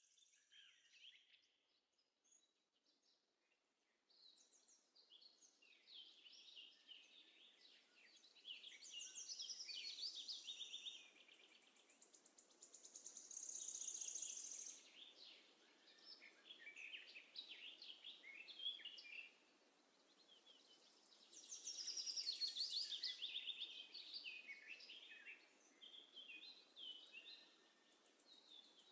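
Faint birdsong: many short high chirps and rapid trills in several swells, over a light hiss.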